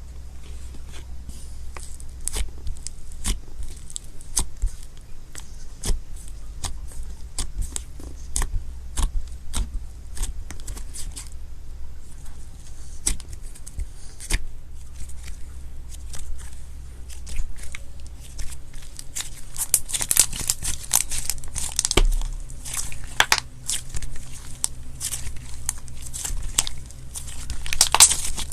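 Slime being squeezed and stretched by hand, giving a steady stream of small crackling pops and clicks that grow denser and louder in the last third.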